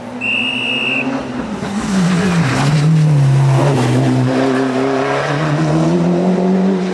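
Rally car's engine under power: its pitch drops about two seconds in, then climbs steadily as the car accelerates. A brief high steady tone sounds near the start.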